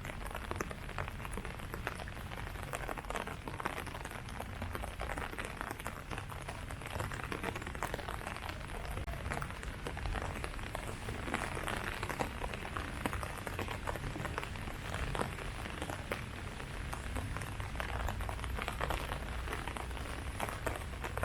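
Steady rain falling on leaves, a dense patter of many small drop hits over a low rumble.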